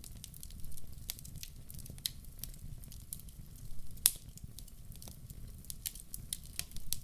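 Logs burning in a fireplace, crackling with irregular sharp pops over a low steady rumble. The loudest pop comes about four seconds in.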